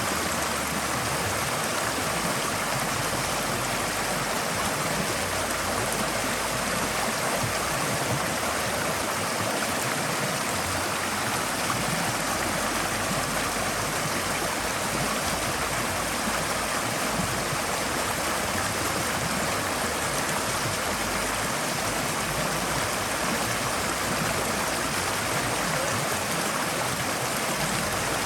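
Forest stream flowing steadily over rocks, a continuous rushing and burbling of water.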